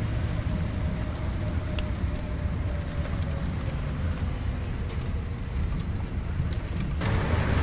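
Scania K410iB double-decker bus running: a steady low engine and road rumble. About seven seconds in, a louder hiss comes in suddenly.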